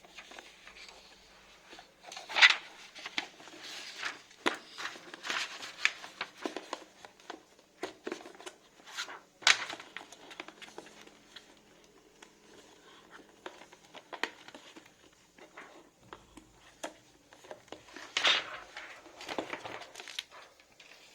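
Earphone packaging being handled and opened by hand: irregular crinkling, rustling and clicks, with louder bursts about two, nine and eighteen seconds in.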